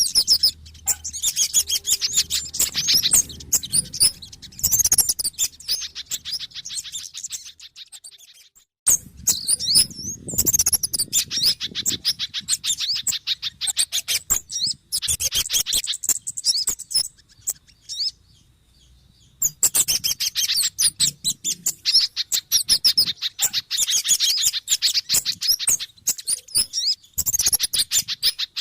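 Bird-lure recording of small birds calling excitedly: rapid trains of sharp, high chirps, with a brief break about nine seconds in and a quieter stretch around eighteen seconds.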